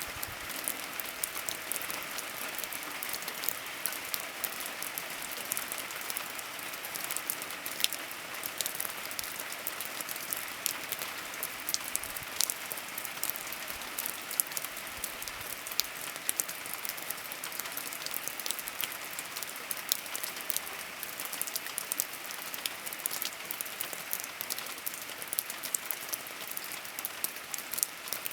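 Steady rain falling, a continuous hiss with many sharp, close drop ticks scattered throughout.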